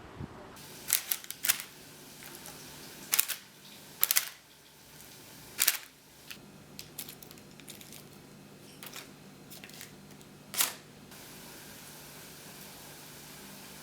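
Irregular sharp clinks and taps of kitchen utensils against dishes and cookware, about ten in all, the loudest a little before halfway and another near the end.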